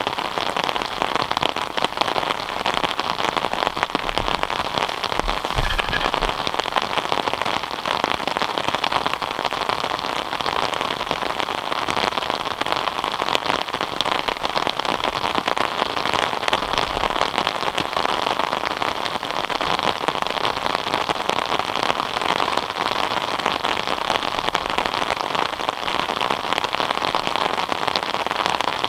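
Steady rain falling, a dense even patter of drops on surfaces, with a couple of faint low thumps a few seconds in.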